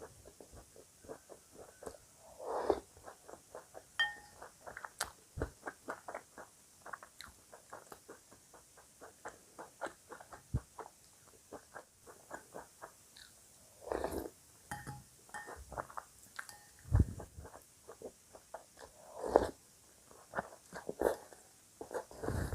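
Close-up chewing of crunchy cereal: a quick run of small crunches, several a second, broken by a few louder, longer mouth noises.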